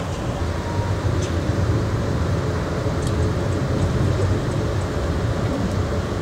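Inside an Amtrak Hiawatha passenger car rolling along the track: a steady low rumble with a few faint high ticks scattered through it.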